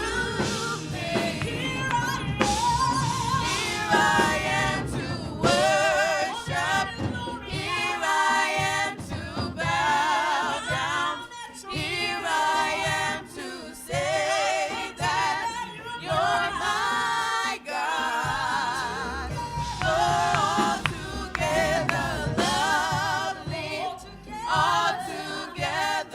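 Gospel worship music: singing with heavy vibrato and melismatic runs over instrumental accompaniment.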